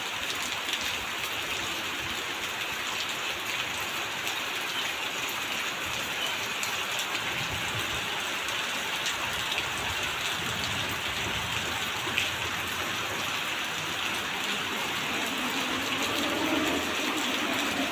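Heavy rain pouring steadily, with scattered drops ticking close by and one sharper tap about twelve seconds in.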